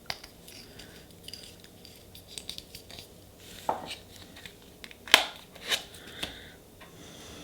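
Light clicks, taps and scrapes of small nail-stamping tools being handled while stamping polish is worked, with a few sharper clicks about five to six seconds in.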